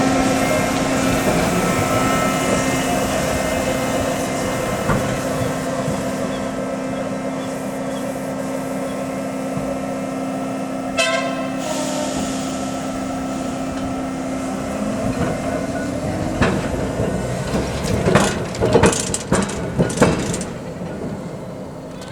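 Tram running on rail with a steady mechanical hum that fades away about two-thirds of the way through. A short ringing toot about halfway, and a quick run of loud knocks near the end.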